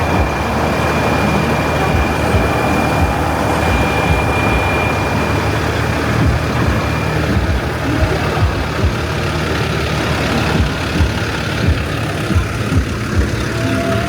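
Semi truck's diesel engine idling with a steady low rumble. A thin, steady high whine sits over it for about the first half.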